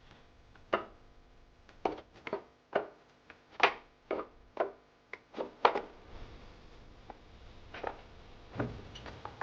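A series of sharp knocks, about a dozen at an uneven pace over the first six seconds, then a few fainter ones near the end over a low rumble.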